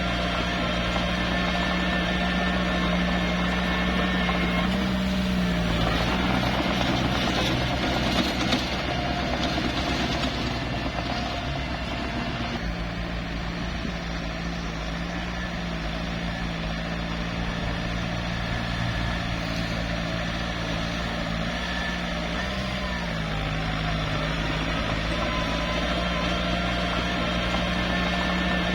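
Small bulldozer's diesel engine running steadily, its pitch dipping briefly about five seconds in and again about two-thirds of the way through. A rougher, noisier stretch overlays the engine from about six to twelve seconds in.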